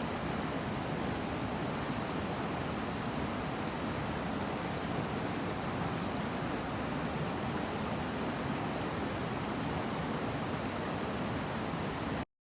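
Waterfall rushing: a steady, even roar of falling water that cuts off suddenly near the end.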